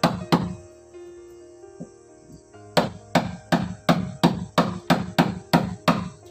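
Hammer blows: two strikes at the start, then a steady run of about ten blows, roughly three a second, from about three seconds in.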